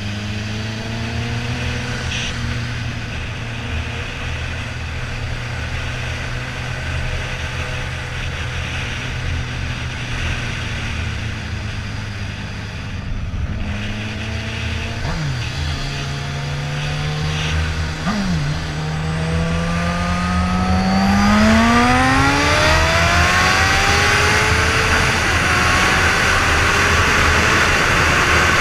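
Suzuki GSX-R1000 inline-four running steadily at part throttle, its pitch jumping sharply and briefly twice in the middle. From about twenty seconds in it revs up hard, the pitch climbing steeply as it accelerates, with wind rushing over the microphone growing louder.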